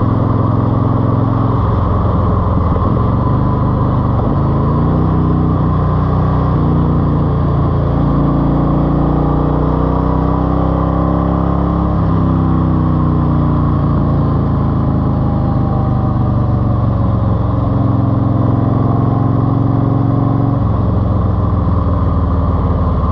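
Eluder GT's engine running through a TAB exhaust with 2.5-inch baffles, its pitch stepping and sliding up and down several times as the engine speed changes.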